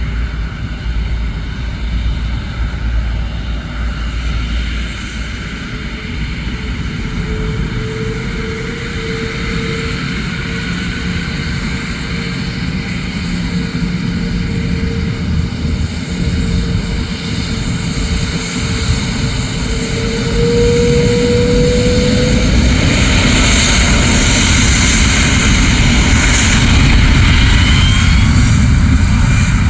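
Boeing 777-300's Rolls-Royce Trent jet engines running, a steady rumble with a whine that rises slightly in pitch; the sound grows louder about twenty seconds in.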